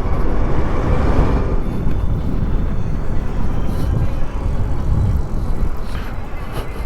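Steady, fluctuating wind rumble and road noise picked up by a handlebar- or helmet-mounted microphone while riding a Super73 electric bike at speed.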